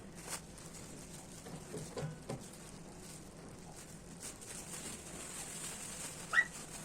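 A few soft clicks and taps, as of kitchen items being handled, in a quiet room. Near the end comes one short, rising, high-pitched vocal squeak.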